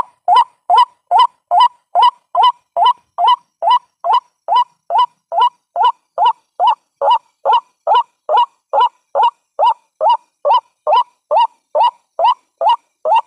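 White-breasted waterhen call played as a trapping lure: a steady, unbroken run of short, upward-sweeping notes, about two and a half a second.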